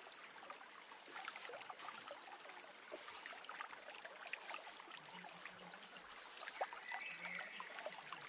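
A small stream trickling and babbling steadily, with birds chirping faintly over it, briefly near the end.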